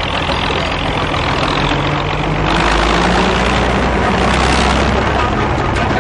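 A rail vehicle's engine running steadily, with a low hum. It swells louder about halfway through.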